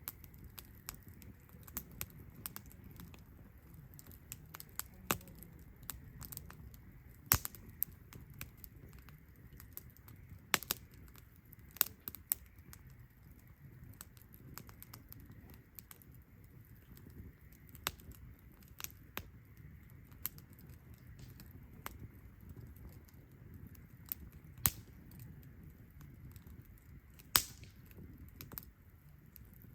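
Wood campfire crackling: a steady low hiss with irregular sharp snaps and a few louder pops scattered through.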